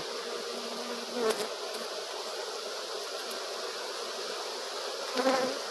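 Honeybee colony buzzing: many bees humming together in a steady, continuous drone.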